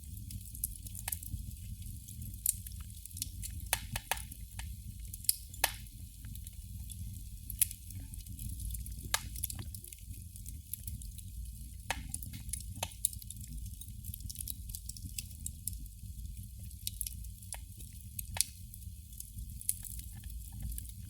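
Burning candle crackling: irregular sharp pops and ticks, a few a second at most, over a steady low rumble and a faint hiss.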